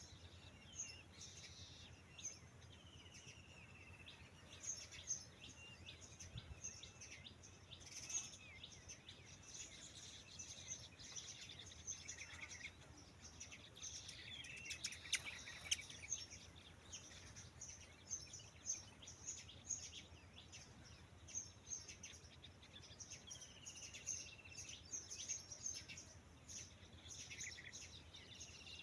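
Birds chirping, faint: a steady stream of short high chirps, with a few lower whistled calls that slide down in pitch, one early on and one near the end.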